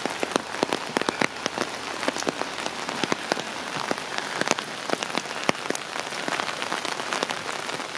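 Steady rain falling, with a constant hiss and many sharp, irregular drop hits close by.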